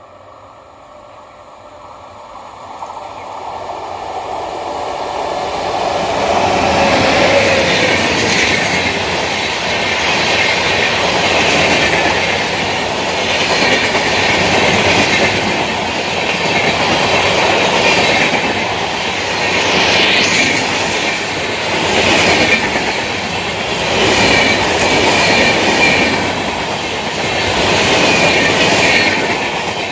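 Passenger express train approaching and running past at speed. Its rumble builds over the first several seconds, then the coaches' wheels clatter over the rail joints in regular loud swells about every two seconds.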